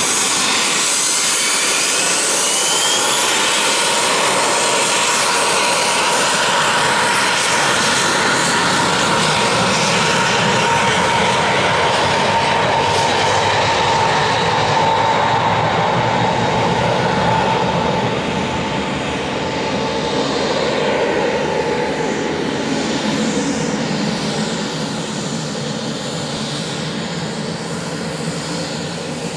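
Pilatus PC-24's twin Williams FJ44 turbofan engines at takeoff power: a loud, steady jet noise with a whine that sinks slightly in pitch as the jet passes. A little past halfway it drops and grows fainter as the aircraft climbs away.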